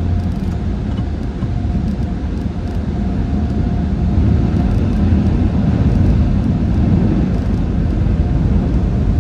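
Steady low rumble and hiss of car wash machinery and a vehicle running, with a faint constant hum; it gets a little louder about four seconds in.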